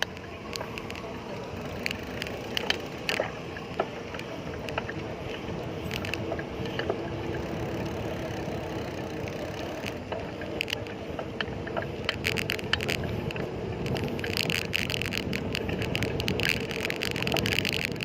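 Ride noise from a bicycle on the road: a steady rush of tyre and air noise with scattered sharp clicks and rattles, the clicking growing denser near the end.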